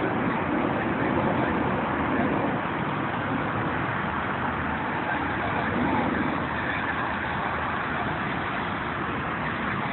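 Jet engines of a Boeing 737-700, two CFM56-7B turbofans, giving a steady rushing noise as the airliner departs, easing off slightly over the last few seconds.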